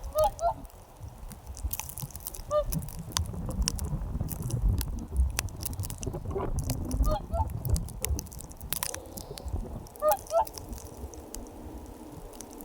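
Geese honking in short clusters of calls: one near the start, one around two and a half seconds in, one around six to seven seconds in and one about ten seconds in. Sharp clicks and low rumbling run in between.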